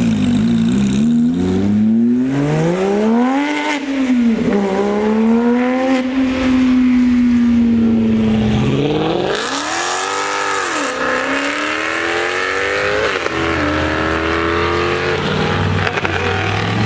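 A car engine revving hard as it pulls away, its pitch climbing and dropping several times and holding high for a few seconds in the middle.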